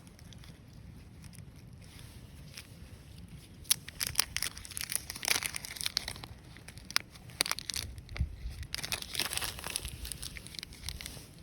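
Irregular crinkling and crunching handling sounds, starting about four seconds in and coming in bursts, over a steady low rumble.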